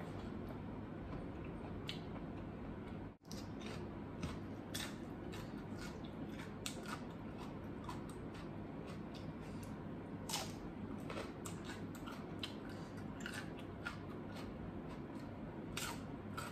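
A person eating and chewing food, with scattered wet mouth clicks and smacks over a steady low background hum. The sound cuts out briefly about three seconds in.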